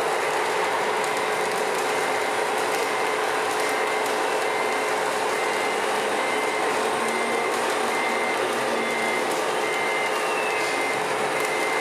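RC truck sound module playing a reversing beeper: a steady run of short high beeps on one pitch, starting about two seconds in, over a continuous engine-like hum.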